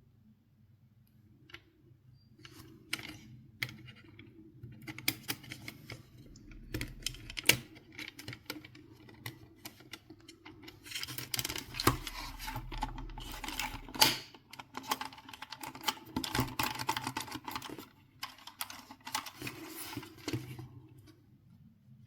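Hands working on the plastic and metal parts of a PlayStation 4 console: many small clicks, taps and rattles, sparse at first and turning into dense clattering in the second half, over a faint low hum.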